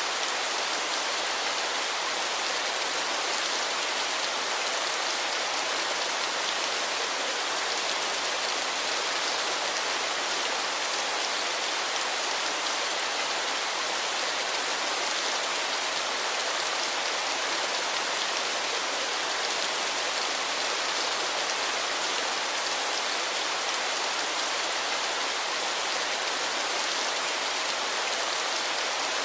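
Waterfall: steady rushing water, an even hiss with little low rumble.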